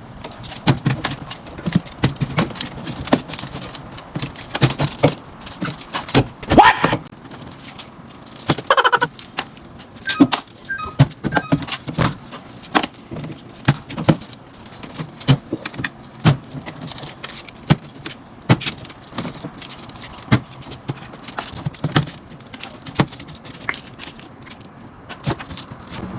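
Packaged items and small plastic bottles being handled and set into a refrigerator during restocking: a steady stream of clicks, knocks and light rattling, with a couple of brief squeaks about seven and nine seconds in.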